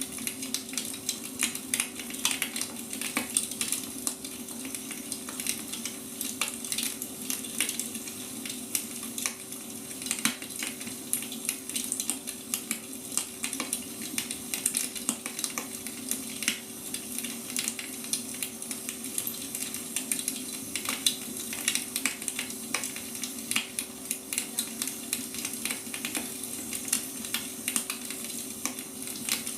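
Firewood burning in a fire, crackling continuously with many small sharp pops, over a steady low hum.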